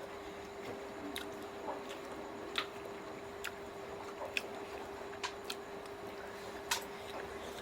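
Close-miked eating of chicken feet: wet mouth smacks and sticky clicks about once a second as the feet are chewed and sucked. Underneath is a steady electrical hum.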